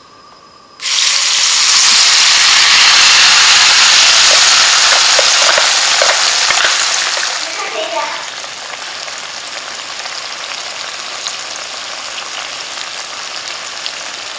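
Blended chili spice paste poured into hot oil in a frying pan: a sudden loud sizzle starts about a second in, then after about seven seconds it settles to a quieter, steady sizzle with scattered crackles as the paste fries.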